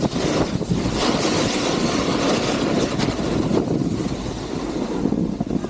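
Steady rush of wind over the microphone mixed with the scrape of snow under the rider during a fast run down a ski slope.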